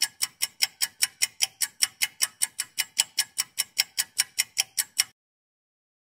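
Clock ticking: fast, even ticks, about five a second, which stop about five seconds in.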